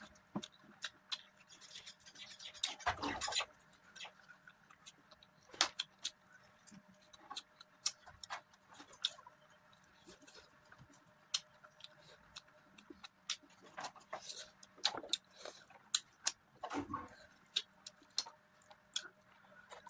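Close-miked eating sounds from mutton curry with rice: chewing, with many sharp wet mouth clicks and smacks and a couple of longer, louder noises about three seconds in and near the seventeenth second.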